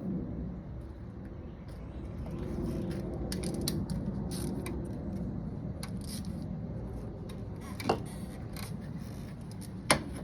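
Hand tools clicking and clinking against engine parts during an ignition coil and spark plug change, with two sharper metallic clinks near the end, over a steady low rumble.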